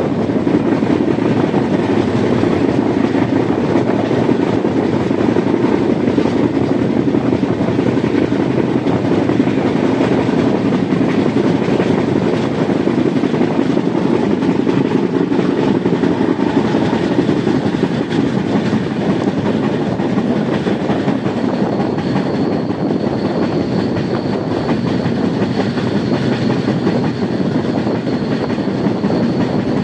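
Express passenger train running along the track: a steady, loud rumble of wheels on rail. About two-thirds of the way through, a faint steady high whine joins in.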